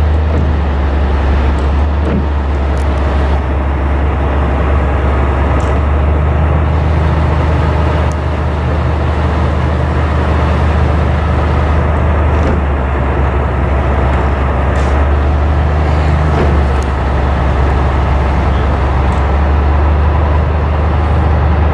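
Heavy ship machinery running steadily: a loud, deep, even hum under a constant rush of noise, with a few faint clicks.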